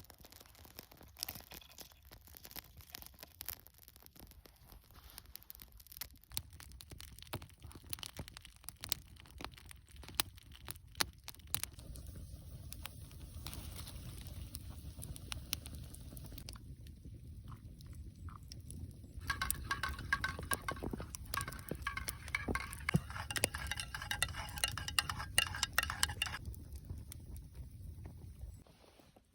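Wood fire crackling with irregular sharp pops. A low steady rush joins it after about twelve seconds, and for several seconds in the second half a high, wavering singing tone rises over the crackle.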